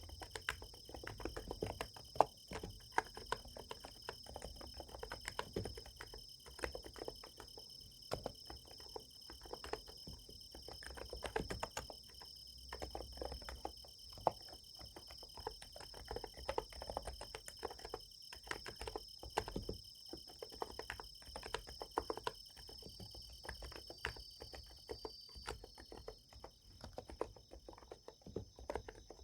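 Typing on a Niz Plum x108 electrostatic capacitive keyboard: an irregular, continuous run of key clicks. Underneath, insects such as crickets keep up a steady high chirring.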